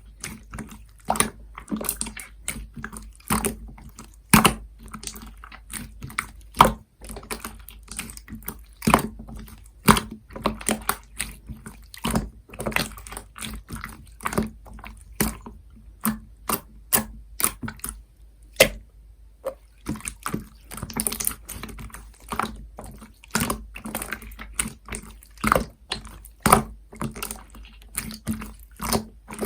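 Opaque pastel slime being squeezed and poked by hand, making irregular wet clicks and pops, a few a second, with a brief pause about nineteen seconds in.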